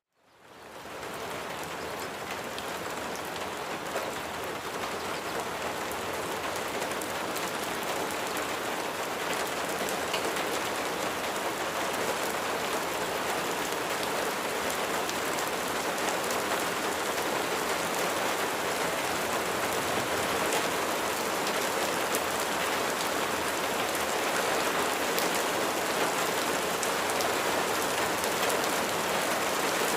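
Steady rain falling, a dense even hiss of drops. It fades in from silence at the start, then runs on evenly, growing slightly louder.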